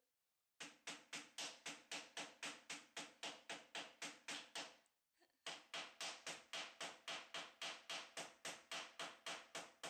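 Fast, evenly spaced hammer strikes, about five a second, each with a short ringing tone, in two runs with a brief break about halfway through.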